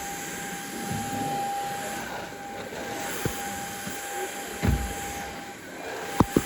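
A household appliance running steadily, a hum with a thin high whine over it, with a few knocks and two sharp clicks close together near the end.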